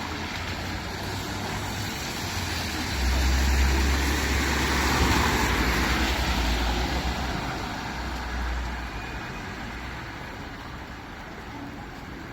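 A motor vehicle passing close by: a low engine rumble and tyre noise swell about three seconds in, peak around five seconds, then fade away.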